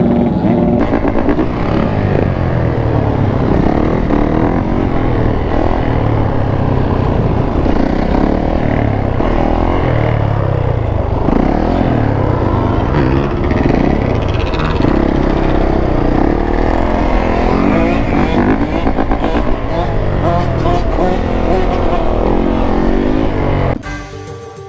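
A steady stream of motorcycles and quads passing close by, their engines revving with many overlapping notes rising and falling as each one goes past. About a second before the end it cuts off abruptly to music.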